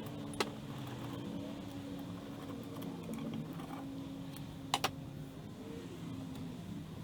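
Small metal parts or hand tools clinking during lathe dismantling: a sharp click about half a second in and a quick double click near five seconds, over a steady low hum.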